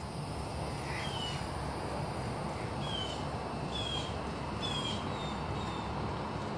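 A bird calling: short, high, falling chirps repeated roughly once a second, over a steady outdoor background noise.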